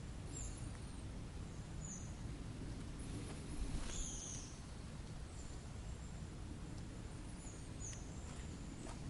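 Small birds giving short, high chirps, four of them spread a few seconds apart, over a steady low outdoor rumble.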